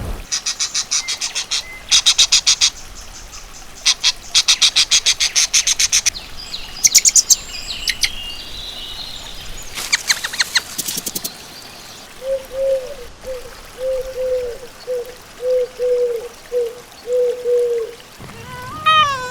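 Animal calls, mostly birds: bursts of rapid, high chattering trills, a few chirps, then a run of about a dozen short, low, clucking notes. A falling, pitched cry starts near the end.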